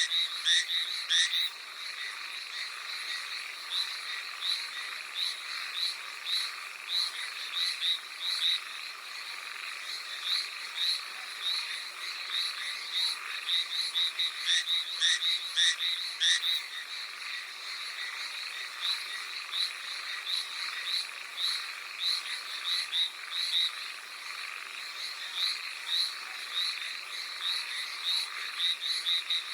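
Hallowell's tree frogs calling: short, high croaks repeated rapidly and overlapping, as from several frogs, over a steady hiss of rain.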